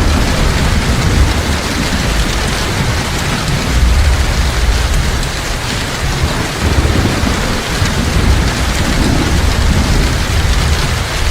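Heavy rain pouring in a dense, steady hiss, with a low thunder rumble that swells and fades several times.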